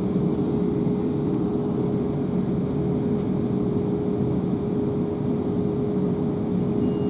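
Class 444 Desiro electric multiple unit running at steady speed, heard from inside a carriage: a continuous rumble of wheels and running gear with a steady hum at one unchanging pitch.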